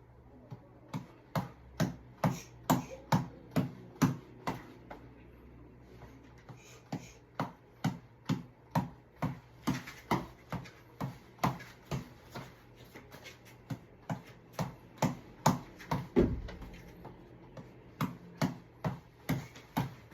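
A tap ball being hit over and over by hand, sharp slaps at about two a second in a steady run with a couple of brief pauses, and one heavier, deeper thud about sixteen seconds in.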